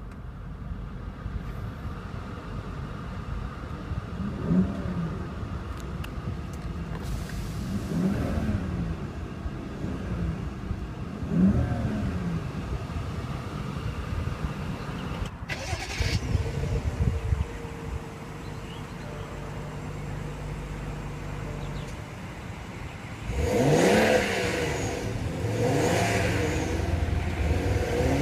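2014 BMW 535i's 3-litre twin-turbo inline-six idling, blipped three times with rising-and-falling revs, then revved harder several times in quick succession near the end.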